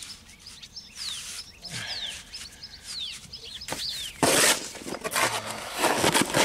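Small birds chirping over and over with quick downward-sliding calls. About four seconds in, and again near the end, come loud close-up scraping and rustling noises as the mortar is worked by hand under the window sill.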